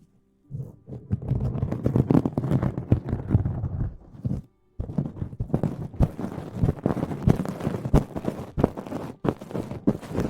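Close-miked ASMR rustling and scrubbing against the microphone, a dense crackle of many small clicks, cut by two brief drops to silence: just after the start and about four seconds in.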